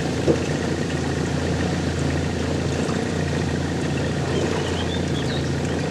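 An engine running steadily with a low hum over a rushing haze, and a short knock about a third of a second in.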